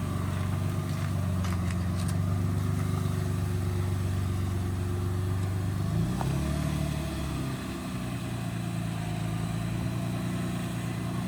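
Infiniti G35's newly swapped-in engine running steadily, its engine speed shifting briefly about six seconds in.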